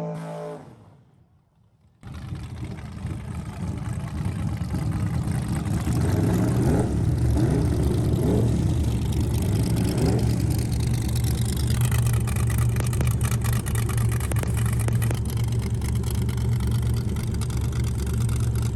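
After about two seconds of near silence, a race truck's engine runs loud and steady, its pitch rising and falling a few times as it is revved.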